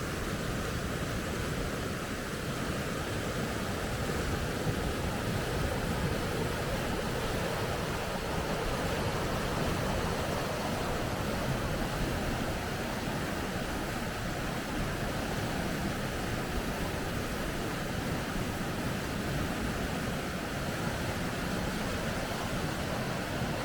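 Rapids rushing: a steady, unbroken roar of water.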